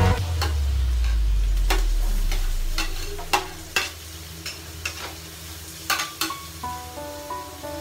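Chopped onion sizzling in hot oil in a stainless frying pan, with sharp clicks of a metal spoon scraping the pieces off a plate and knocking against the pan. A low hum fades out over the first three seconds.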